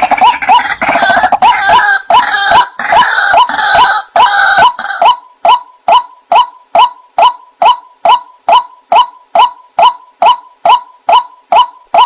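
White-breasted waterhen (ruak-ruak) calling: a dense run of harsh, overlapping croaks for about five seconds, then a steady series of short, clipped notes, about three a second.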